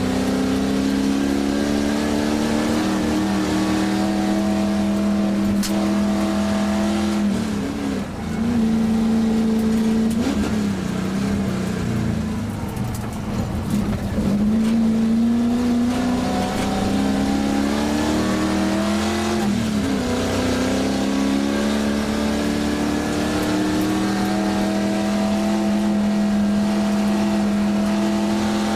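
1967 Ford Shelby GT350's V8 heard from inside the cabin, running hard at high revs on a hill-climb run. The engine note holds steady for long stretches and briefly dips and picks up again several times.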